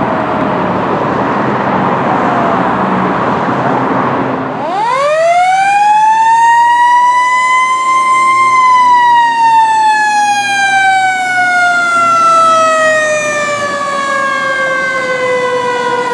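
Fire engine responding: a loud truck engine noise, then about four and a half seconds in its siren winds up fast to a high pitch and coasts slowly back down, the long falling wail of a mechanical siren.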